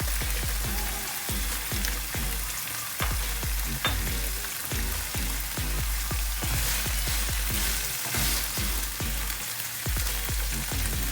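Chicken curry frying and sizzling, over background music with a steady bass beat.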